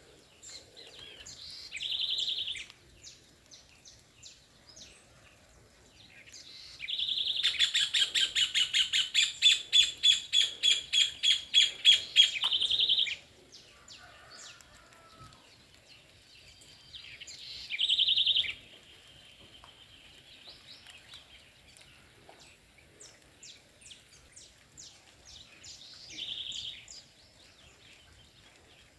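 Songbirds singing and chirping. One loud, fast trill of evenly repeated high notes, about three a second, lasts around six seconds in the middle, and shorter loud phrases come near the start, past halfway and near the end.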